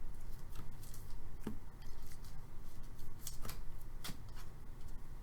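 Hockey trading cards being handled and flipped through, a scattering of light clicks and short slides, over a faint steady low hum.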